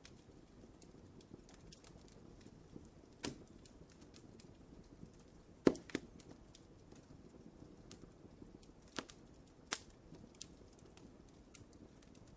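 Wood fire burning in a fireplace: a soft low rumble with constant small crackles and a handful of sharper pops, the loudest about halfway through.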